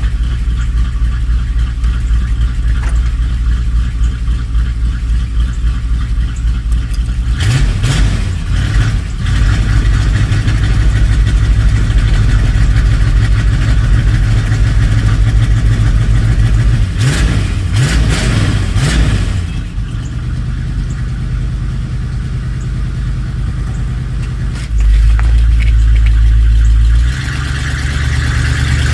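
A vehicle engine running, revved in surges twice, with the pitch rising and falling, and a louder steady run for a couple of seconds near the end.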